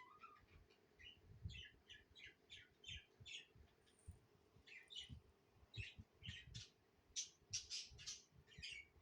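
Pet budgerigars chirping in many short, quick calls that come thicker and louder in the second half, over faint low knocks.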